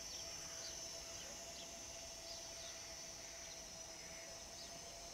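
Faint outdoor background with scattered short, high, falling bird chirps over a steady thin high-pitched tone.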